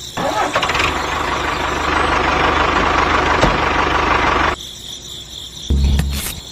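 A motor running steadily with a fast, even low rumble; it starts abruptly and cuts off suddenly after about four and a half seconds.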